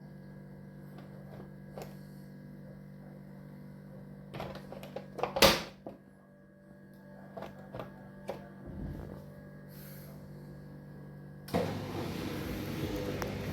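Scattered clicks and knocks of handling a Bosch dishwasher, with one sharp click about five seconds in. Near the end a steady rushing noise sets in as the machine starts up.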